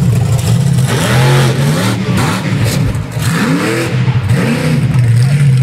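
An idling engine revved several times in quick succession, its pitch rising and falling with each blip, then settling back to a steady idle near the end.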